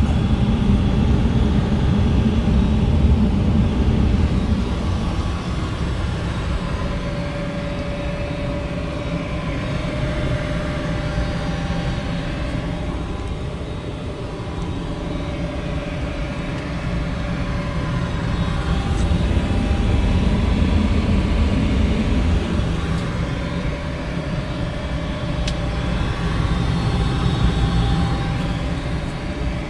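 Goodman 95% AFUE gas furnace running: a steady low hum and whoosh with a faint steady whine, swelling and easing slightly in loudness.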